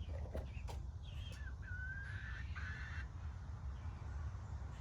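Chickens calling: a couple of short clicks early on, then a drawn-out hen call from about one and a half to three seconds in, over a steady low rumble.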